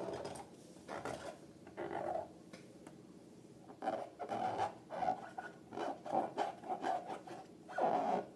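Hands rubbing and working slime and rubber balloons, giving a series of short rubbing, squishing sounds that come about three a second from about halfway through, with one longer falling stroke near the end.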